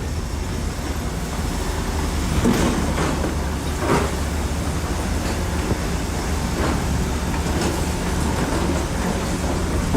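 Bulldozer's heavy diesel engine running steadily under load, with a few short sharp sounds over it, the strongest about four seconds in.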